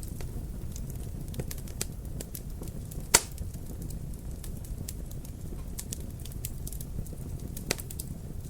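Wood fire in a fireplace crackling, a low steady rumble of flames under irregular sharp pops and snaps, the loudest pop about three seconds in and another near the end.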